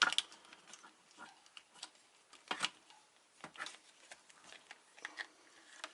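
Scattered clicks and light knocks of hands working on a UPS battery pack, taking out the jumper wire between the two batteries. The loudest click comes about two and a half seconds in.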